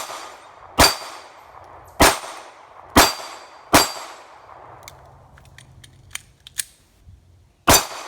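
Glock 42 .380 pistol firing six shots at steel targets: five at roughly one a second, then a pause with a few light clinks, and a last shot near the end. The hits clang on the steel.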